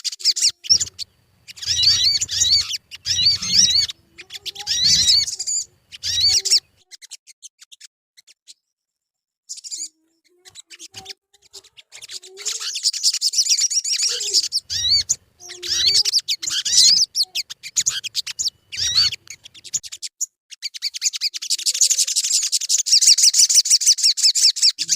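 Sogon bird calling in bursts of high, rapid chattering trills separated by short pauses, with a brief silent gap about a third of the way in. This is a lure call played to get a captive sogon to start singing.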